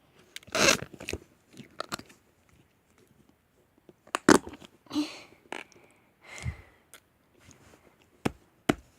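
Slime squeezed and poked by hand, giving about eight short squishy pops and squelches with gaps between them: air pockets forced out of the slime, the slime "fart" noise.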